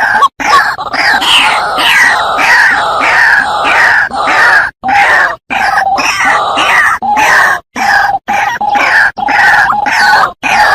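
White-breasted waterhen (ruak-ruak) giving its loud, harsh calls over and over, two or three a second, in a recording used to lure the bird. The calls break off in several abrupt short gaps.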